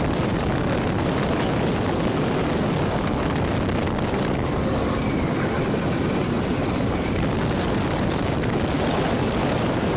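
Yamaha R15 V3 motorcycle riding at a steady speed: wind noise on the microphone over the engine and road noise, with no change in pace.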